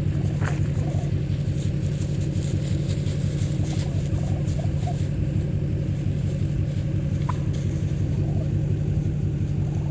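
A steady low rumble like an idling motor runs throughout. Over it come a few short, faint bird calls: one rising call about half a second in, a couple of small ones around the middle, and another about seven seconds in.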